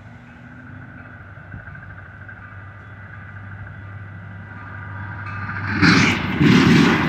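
Metra commuter train approaching on the rails: a steady hum that slowly grows louder, then, near the end, a sudden jump to much louder train noise as it draws close.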